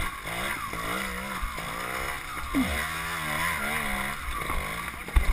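Trials motorcycle engine being worked up and down on the throttle at low speed over rocks, its pitch rising and falling. Low thumps come through as the wheels strike stones, the loudest near the end, over a steady hiss.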